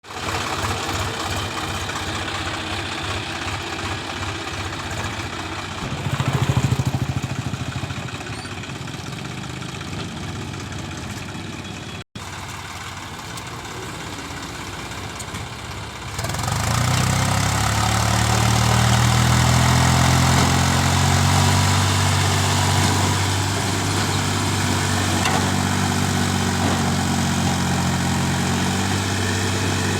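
Swaraj 834 tractor's three-cylinder diesel engine running, swelling briefly about a fifth of the way in. From just past halfway it grows louder and deeper, labouring as it hauls a loaded four-wheel trolley.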